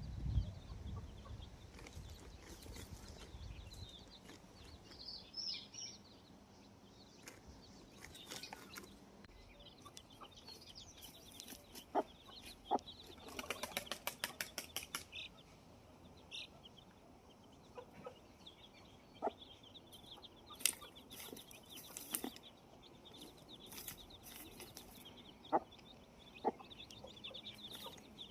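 Chickens clucking, with thin high bird chirps near the end. There are scattered sharp clicks throughout and a quick run of strokes about halfway through.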